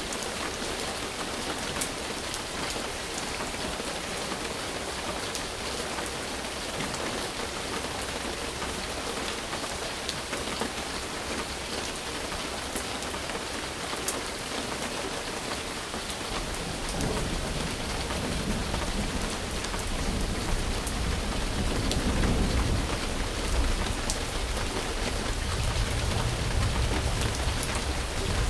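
Steady rain falling, with scattered louder drops. About halfway through a low rumble of thunder comes in, swells, and keeps rolling to the end.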